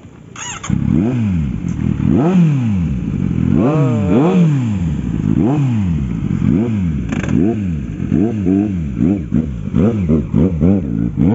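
Kawasaki Z900's inline-four engine being revved repeatedly while standing still: a string of throttle blips, each rising and falling in pitch, starting about a second in and coming faster and closer together near the end.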